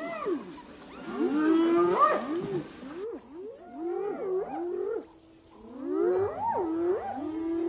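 Wild animals calling: a chorus of overlapping short yelping calls, each rising and then falling in pitch, with a brief lull about five seconds in.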